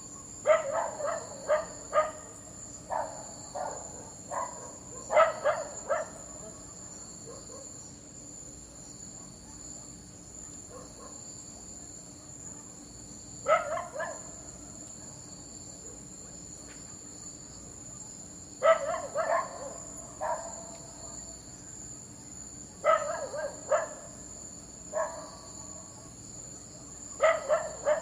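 A dog barking in short bursts of several barks, with pauses of a few seconds between bursts, over a steady background of crickets chirping.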